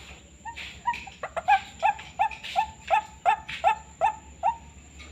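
White-breasted waterhen calling: a run of short, repeated harsh notes, about three a second, starting about half a second in and stopping shortly before the end.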